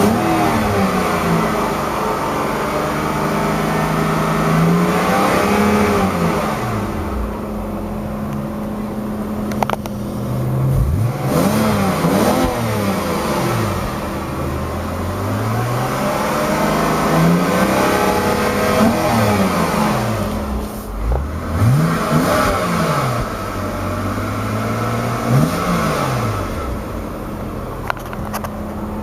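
2009 BMW 128i's 3.0-litre inline six being revved in neutral again and again, the engine note climbing and dropping back each time, with short stretches of idle between revs.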